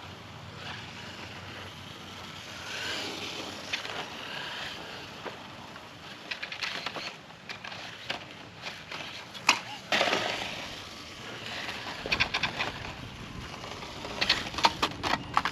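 1/8-scale RC motorcycle rolling along the ground with a steady rolling hiss. In the second half come several runs of sharp clatters and knocks.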